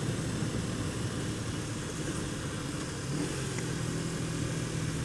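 Kawasaki Ninja 250 parallel-twin engine running at a steady cruise with a constant rush of wind and road noise, heard from the riding motorcycle.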